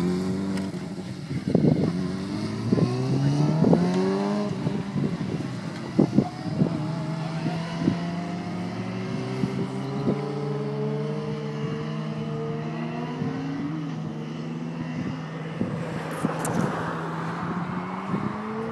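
600cc inline-four sportbike engine pulling hard through the gears: its pitch climbs in several quick steps with the upshifts over the first few seconds. It then holds a steady note for about ten seconds and begins to rise again near the end.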